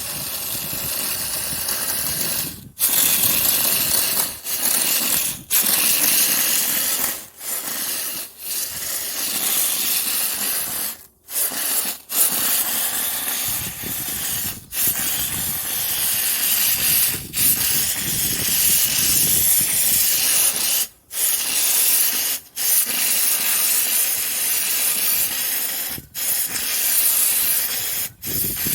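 Handheld steamer spraying steam onto a yellowed plastic headlight lens, a loud steady hiss broken by short pauses every second or few seconds.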